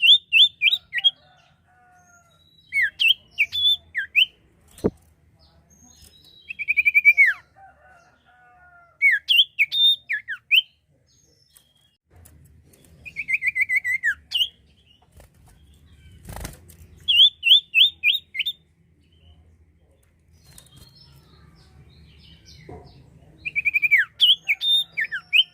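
Sirtu songbird singing: repeated short bursts of quick, sweeping whistled notes, each burst a second or so long, with pauses between them. A sharp click sounds about five seconds in and a dull knock about two-thirds of the way through.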